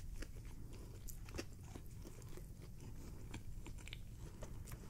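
Faint chewing of a mouthful of double-stack burger stuffed with French fries: soft, irregular crunches and mouth clicks.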